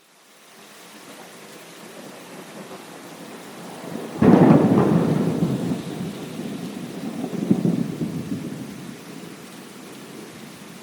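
Steady rain fades in, then a sudden close thunderclap about four seconds in, rumbling on with a second swell a few seconds later before dying back under the rain.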